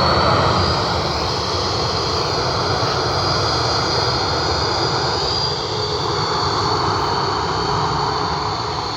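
Jet airliner's engines running loud, with a high steady whine over a dense rush of noise, gradually fading.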